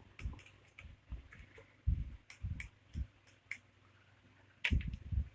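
Handling a plastic takeout gravy cup and food container while gravy is poured onto a burger steak: scattered light clicks and soft knocks, with a louder cluster of knocks near the end.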